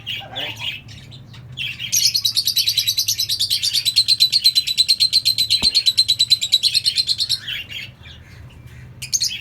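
Lovebirds in an aviary chattering: a few short shrill chirps, then from about two seconds in a long, fast run of repeated high chirps, about ten a second, lasting some five seconds before it breaks off.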